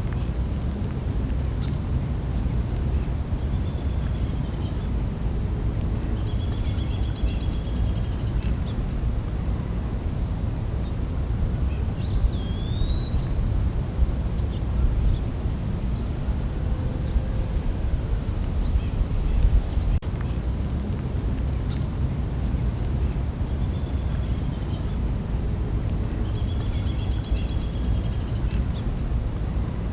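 Night forest ambience: a steady high-pitched insect drone and repeated trains of quick cricket chirps, with a few bird calls now and then over a constant low rumbling background.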